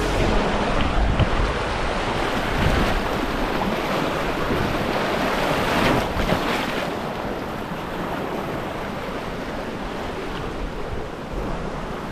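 Rushing river water of rapids, with rough noise of water and wind on the microphone. It is louder for the first six or seven seconds, then eases to a steadier rush.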